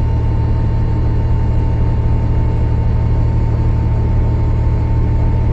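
Cummins ISL9 diesel engine of a 2013 Gillig Low Floor bus running steadily, a deep rumble with a thin steady whine over it.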